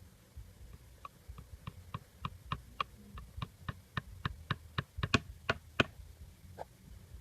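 A run of sharp taps, about three or four a second, growing louder toward the end, then one last tap a moment later.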